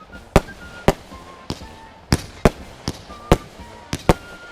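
Fireworks going off: a run of sharp, separate bangs at irregular spacing, about two a second.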